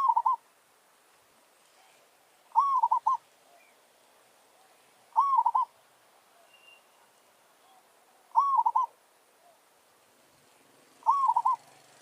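Zebra dove cooing: five short phrases of quick rippling, arched coos, one every two and a half to three seconds.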